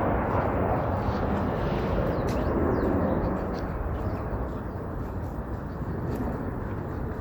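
Steady rumble of city street traffic, louder at first and easing off after a few seconds, with a few faint high chirps over it.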